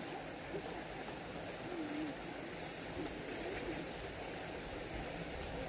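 Outdoor countryside ambience with faint bird calls over a steady hiss: low wavering calls come and go, and a rapid run of short high chirps sounds in the middle.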